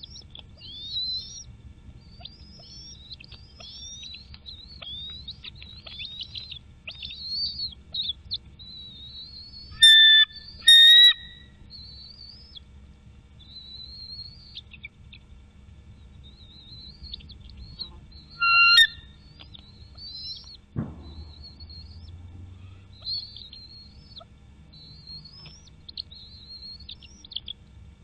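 Birds chirping continuously in quick, high, short chirps. Three much louder whistled calls stand out, two together about a third of the way in and one about two thirds in.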